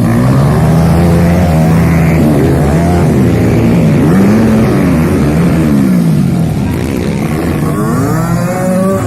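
Several motocross bikes racing, their engines revving up and down in overlapping rising and falling pitches over a steady low drone.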